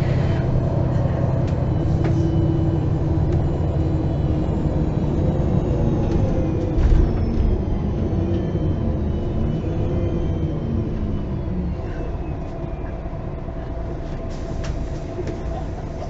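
Interior sound of a MAN Lion's City G articulated city bus under way: the diesel engine and drivetrain running steadily, with a knock about seven seconds in, after which the engine pitch falls over a few seconds.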